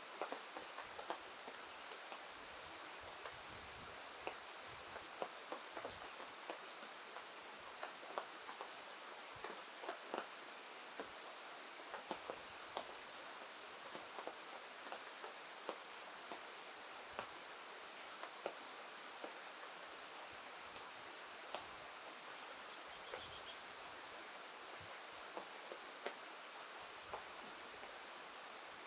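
Steady rain falling, an even hiss broken by irregular sharp ticks of individual drops striking close by.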